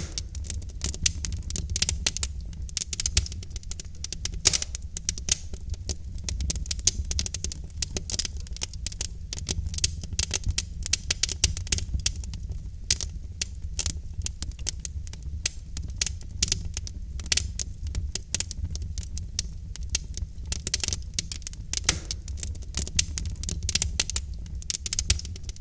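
Wood fire of logs burning in a fireplace, crackling and popping in a dense, irregular run of sharp snaps over a steady low rumble of flame.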